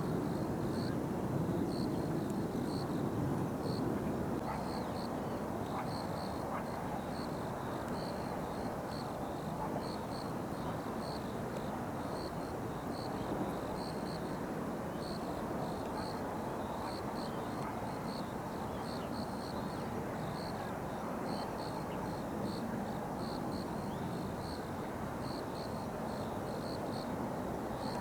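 Distant jet aircraft rumble, a little louder in the first few seconds and then steady. Short high chirps repeat irregularly on top.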